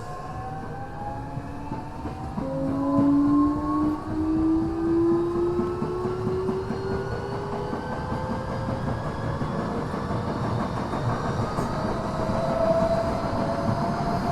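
Tokyo Metro 6000 series electric train's Mitsubishi IGBT-VVVF inverter and traction motors whining in several tones that climb steadily in pitch as the train accelerates, heard from inside the car. A stronger lower tone joins about two and a half seconds in, over the rumble and clatter of the wheels on the rails.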